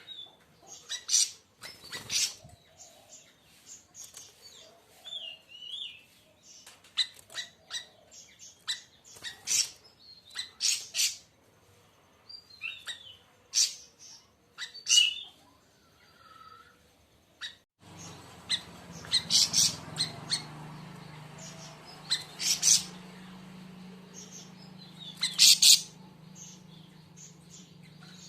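Siri-siri bird (large 'siri siri raja') calling: a run of sharp, short chirps and brief high notes at irregular intervals. About two-thirds in, a steady low hum joins underneath the calls.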